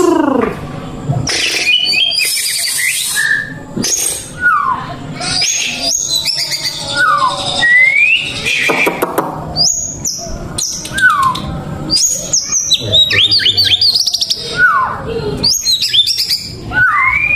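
White-rumped shama (murai batu) singing loudly in a fast, varied run of clear whistles, downward sweeps, rising glides and quick chattering notes.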